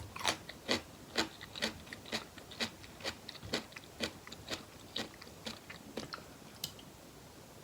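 Close-miked mouth chewing, wet clicking chews about two a second that grow fainter and stop shortly before the end.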